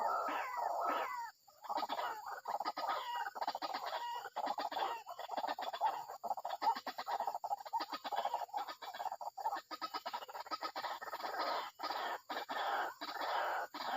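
White-breasted waterhen (ruak-ruak) calling: a dense run of rapid clucking, croaking notes, broken by a brief pause about a second and a half in.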